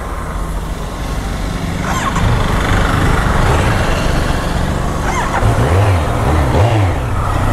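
Kawasaki Z900's inline-four engine running as the bike is ridden, under a steady rush of noise. Its note wavers up and down several times in the second half.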